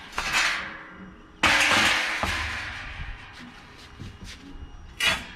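Scrap being handled: a sudden loud clatter about one and a half seconds in that fades over a second or so, with scattered knocks and a short sharp noise near the end.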